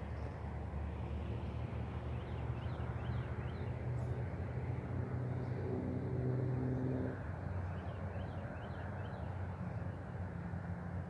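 Steady low rumble of motor traffic, with one engine's hum building and then dropping away about seven seconds in. Two short runs of quick bird chirps sound over it, early and again late.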